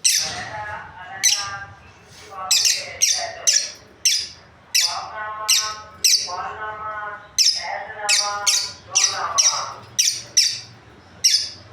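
Lovebirds calling: sharp, shrill chirps repeating about one and a half times a second, with harsher, lower chattering squawks in between.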